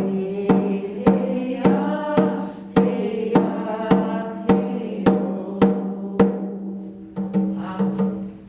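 A drum beaten in a steady beat, nearly two strikes a second, under a woman singing a song in sustained held notes.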